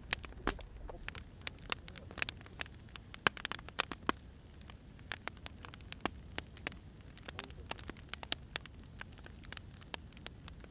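Firewood burning, crackling with irregular sharp pops and snaps over a soft low rumble.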